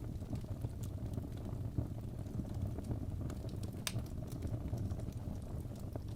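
Fire burning in a fireplace: a steady low rumble of flames with scattered small crackles, and one sharper pop about four seconds in.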